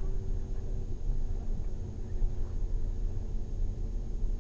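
Lamborghini Gallardo's V10 engine running steadily with no revving, heard from inside the cabin as a constant low rumble.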